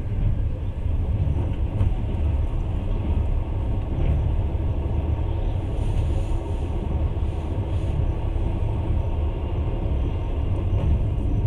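Moving train: a steady low rumble of the carriage running over the rails, without a break.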